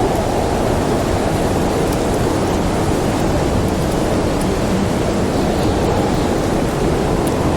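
Snowstorm wind blowing in a steady, dense rush, with a few faint crackles from a wood fire.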